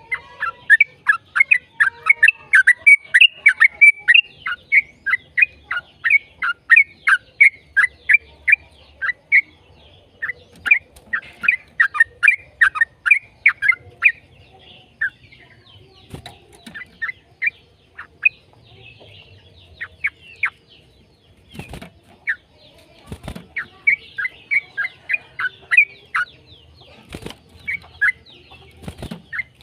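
Yellow-vented bulbul singing: long rapid runs of short, sharply falling notes, several a second, breaking off now and then and starting again. A few sharp knocks come in the latter part.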